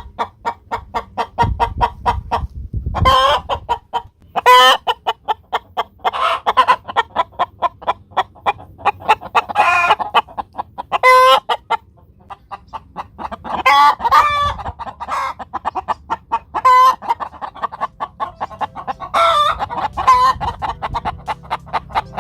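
Hen cackling: a fast run of clucks broken every couple of seconds by a loud, drawn-out squawk. This is the egg song a hen makes after laying.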